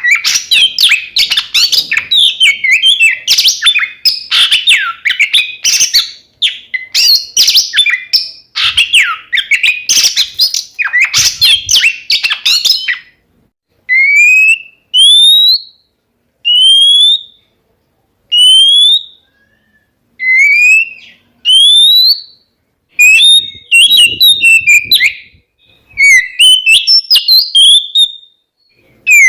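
Oriental magpie-robin (kacer) singing: a dense run of fast, varied whistles and clicking notes for about the first half. Then comes a string of single rising whistles about two seconds apart, and busier varied song returns near the end.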